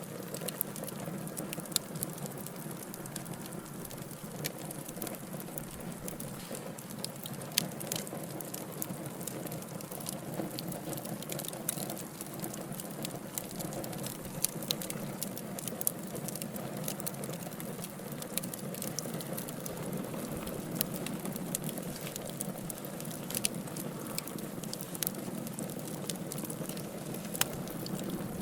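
Burning logs crackling: many small sharp pops and snaps over a steady low rush of the flames, with a few louder pops.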